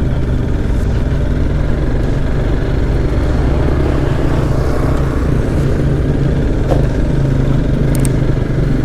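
Motorcycle engine running steadily while being ridden, a low even drone.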